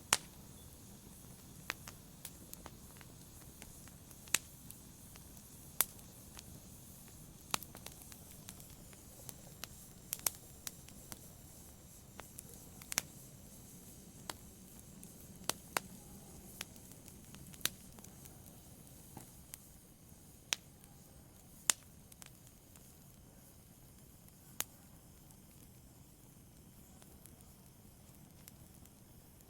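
Wood fire crackling in a fireplace, with sharp pops at irregular intervals over a soft low rumble; the pops thin out over the last several seconds.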